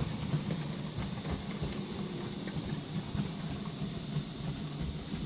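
Model Bachmann GWR 5700 class pannier tank locomotive running on the track pulling a rake of box wagons: a steady motor hum and wheel rumble with scattered faint clicks.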